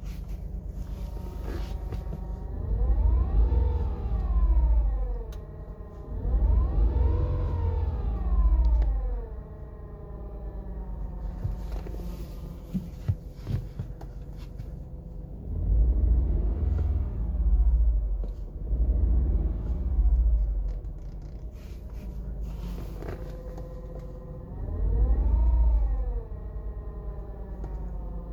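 BMW 118i running with a steady hum, and several times a noise swells up for about two seconds, a deep rumble with a tone that rises and falls in pitch, as the clutch pedal is pressed: the clutch noise the owner is recording at 43,000 miles.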